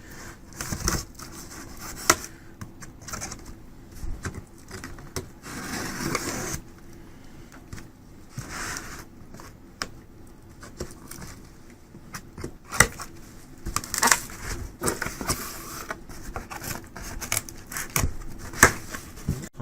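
Cardboard box being opened and handled by hand: irregular scraping and rustling of cardboard and packing, with several sharp clicks and knocks scattered through.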